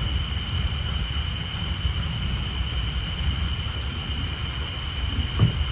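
Rain on a tin roof with a steady low rumble of thunder, under a continuous high-pitched chorus of tree frogs. A single brief louder thud near the end.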